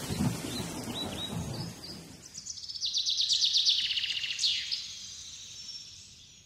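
Songbird chirping: a few short high chirps, then a rapid trill about two seconds in and a quick falling whistle, fading away near the end.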